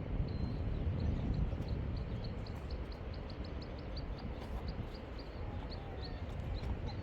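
A small bird repeating short, high chirps, about three a second, thinning out near the end, over a steady low rumble of wind noise.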